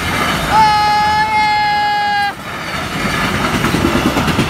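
Freight train passing a level crossing at speed: a steady rumble with the rattle of wheels on the rails. About half a second in, a steady high tone sounds for nearly two seconds and cuts off suddenly.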